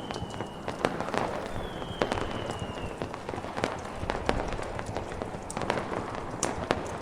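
Mixed fireside ambience: irregular crackles and pops from a wood fire and distant fireworks over a steady snowstorm wind hiss. Two faint, slightly falling whistles come through, one near the start and one about two seconds in.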